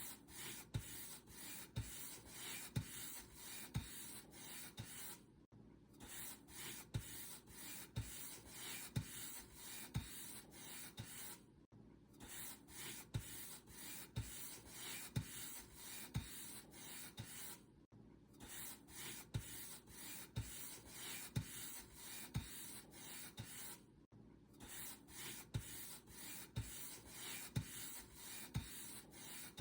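Paint brush bristles stroking back and forth across a surface, about two strokes a second, each with a soft low thump, with a brief pause about every six seconds.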